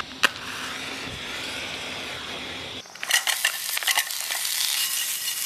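Sausages frying, sizzling steadily at first, then from about three seconds in a louder crackling sizzle with fat spitting and popping.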